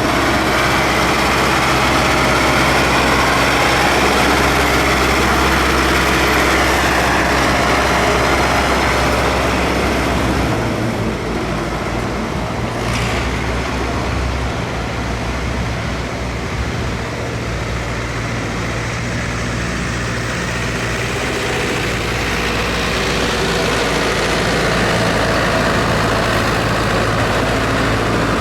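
Tractor engines running with a steady low drone, the sound easing off about ten seconds in and building again near the end.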